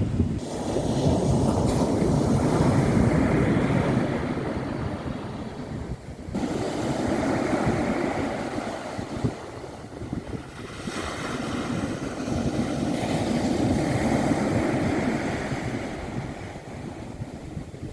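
Sea waves washing onto the shore, the surf swelling and falling away three times, with wind rumbling on the microphone.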